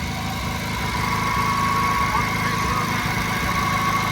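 A 1956 JAP model 55 824cc TVO stationary engine driving a 5 kW generator, running steadily, with an even low beat and a steady high whine over it.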